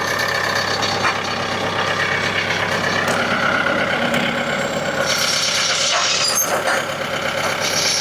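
Small 40-horsepower tractor engine running steadily, with a few short bursts of hiss partway through.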